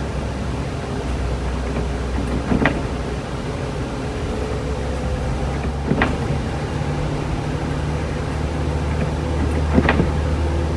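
A car heard from inside the cabin while driving: a steady low engine and road hum, with a short sharp sound every three to four seconds, three times in all.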